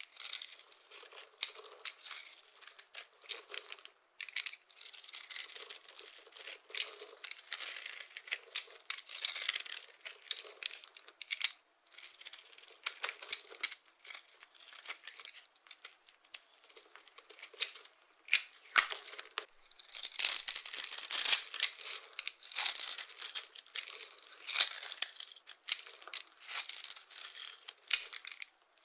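Dry soap shapes being crushed, a dense run of crisp crackling crunches that come in bursts with short pauses, the loudest bursts about two-thirds of the way through.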